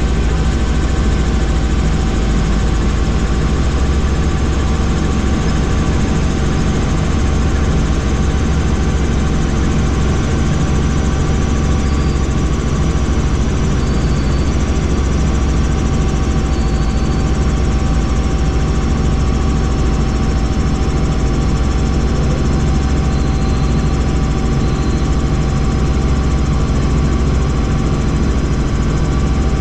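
Helicopter in flight: a steady, loud rotor and engine drone with constant tones and no change in pitch.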